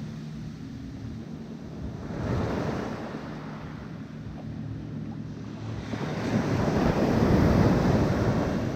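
Small dinghy outboard motor running steadily under a rush of water and wind on the microphone. The rush swells about two seconds in and again, louder, near the end.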